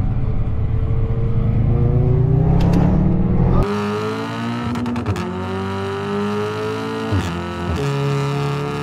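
Car engines accelerating hard, heard from inside the cabin: first a deep rumble rising in revs, then, after a sudden change a little over three seconds in, a Golf R's turbocharged 2.0 four-cylinder pulling through the gears. Its pitch climbs and drops sharply at each upshift of the dual-clutch gearbox, twice.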